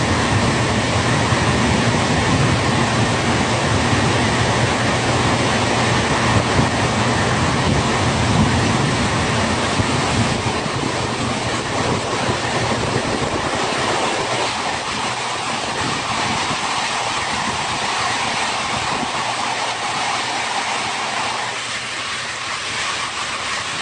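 Steady rushing noise with a low rumble, the rumble thinning out about two-thirds of the way through.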